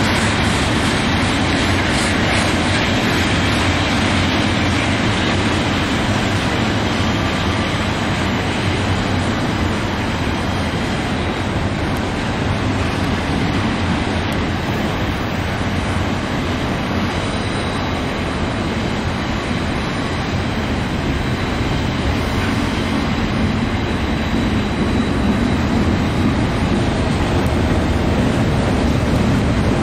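Double-stack intermodal train's loaded container well cars rolling past, a steady, continuous sound of steel wheels on the rails that grows slightly louder near the end.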